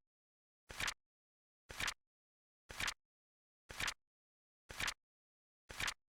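Flip clock flip sound effect ticking once a second. Each is a short, crisp clack with a soft start and then a louder snap, with silence between them.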